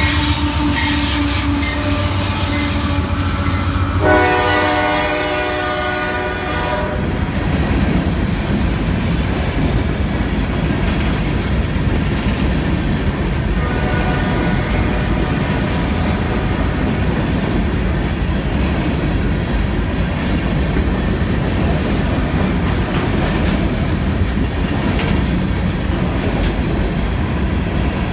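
Diesel locomotive horn sounding a chord twice, the second blast starting about four seconds in and ending about three seconds later, then the steady rolling rumble and clickety-clack of a long string of empty coal hoppers passing on the rails.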